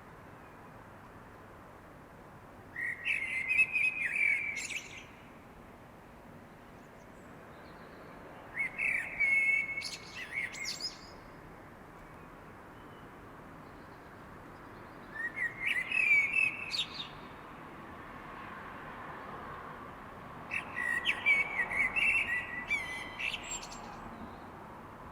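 A songbird singing in the night: four warbled phrases of about two seconds each, every five to six seconds, each starting with clear whistled notes and ending in a higher twittering flourish, with quiet pauses between.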